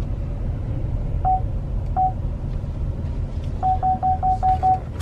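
Short electronic beeps at one pitch, first two single beeps and then a quick run of six, over a steady low rumble of a running engine.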